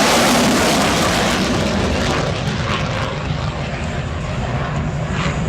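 F-16C fighter jet passing and drawing away: a loud rush of jet noise whose high end fades from about two seconds in, leaving a lower rumble.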